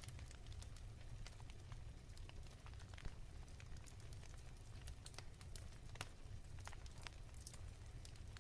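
Wood fire crackling softly, with irregular small pops and snaps over a low steady rumble; one pop about three seconds in stands out.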